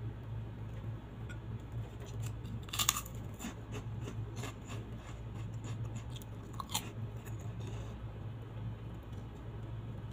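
Close-up crunching and chewing of a crisp fried cracker (kerupuk): sharp crunches about three seconds in and again near seven seconds, with softer crackles between, over a steady low hum.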